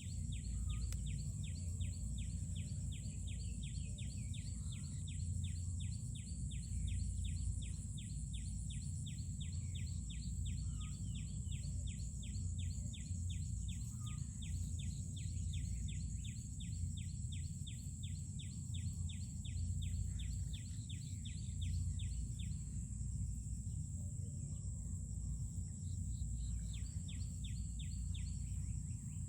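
Outdoor ambience: a rapid, even series of short high chirps, about four a second, that stops about three quarters of the way through and returns briefly near the end, over a steady high hiss and a low rumble.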